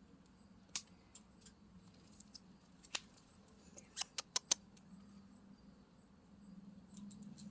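Faint, scattered sharp clicks and crackles, one here and there and a quick cluster of four about four seconds in, over a low steady hum.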